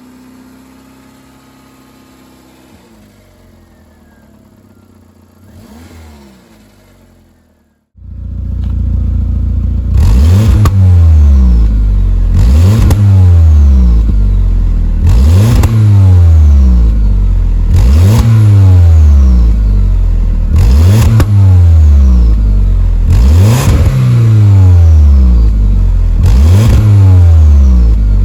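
Audi TT's 1.8-litre turbocharged four-cylinder engine, quiet at first and then, about eight seconds in, revved hard over and over. Roughly every two and a half seconds the revs jump sharply and then fall away.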